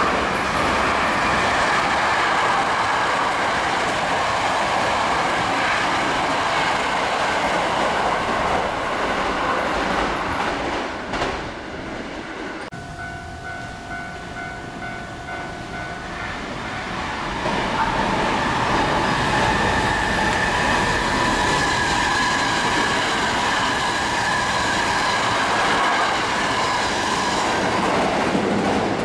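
Hankyu 1000 series electric trains running through the station at speed, their wheels clattering on the rails. The first train's noise drops off about two-fifths of the way in, leaving a quieter spell. A second train then comes through with a steady motor whine over the rail noise.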